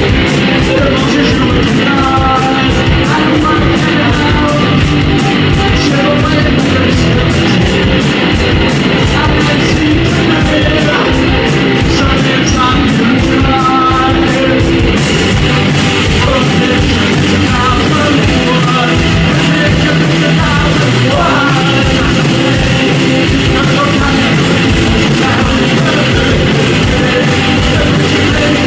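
Loud rock music with distorted guitar, a driving beat and shouted vocals.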